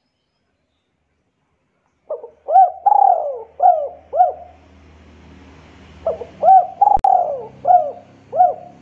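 A bird calling: two series of five or six quick rising-and-falling notes, a couple of seconds apart, with a sharp click during the second series.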